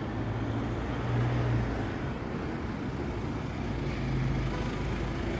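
Street traffic noise, with a motor vehicle's engine running as a steady low hum under the road noise.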